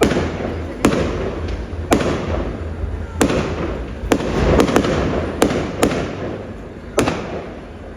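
Fireworks display: a fast, irregular series of sharp bangs, about ten in eight seconds, each trailing off in an echoing rumble.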